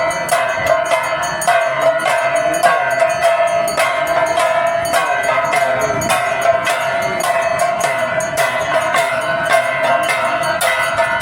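Aarti bells ringing rapidly and continuously, struck in a fast, even rhythm, with a steady ringing pitch sustained throughout.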